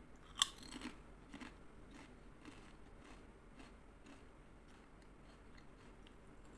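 A bite into a thin white crisp snaps once, loudly, about half a second in, followed by crunchy chewing at about two chews a second that grows fainter.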